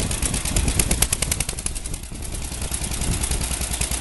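1948 Wisconsin 9.2 horsepower engine starting and running with a rapid popping exhaust beat. It dips briefly about two seconds in, then settles into a steady run.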